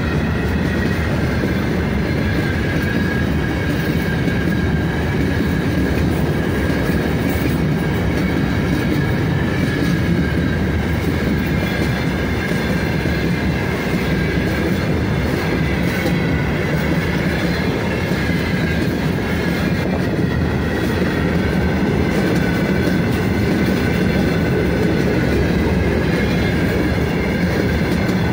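A long freight train of open-top gondola wagons rolling past close by: a steady loud rumble of steel wheels on the rails with a rhythmic clatter. A thin, wavering high tone runs over it.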